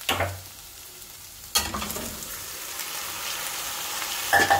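Marinated chicken pieces tipped into hot oil and fried onions in a stainless steel pan: two sudden loud splashes of sizzle about a second and a half apart, then steady frying that slowly builds. Near the end a steel ladle clanks against the pan with a short metallic ring.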